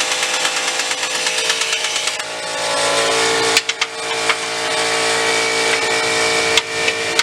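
A handheld power tool's motor running continuously with a rattling edge, its pitch dropping slightly about two seconds in as it takes load.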